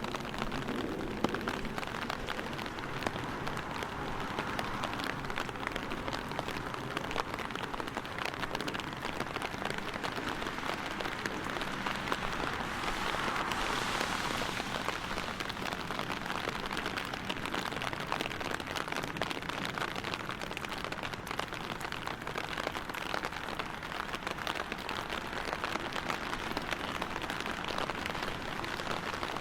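Steady rain falling, with many close drops ticking, and a hiss that swells and fades about halfway through.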